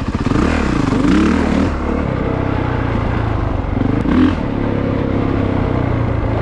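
Honda CRF450RX dirt bike's single-cylinder four-stroke engine running on the trail. It revs up and eases off about a second in, and again with a short burst of throttle about four seconds in.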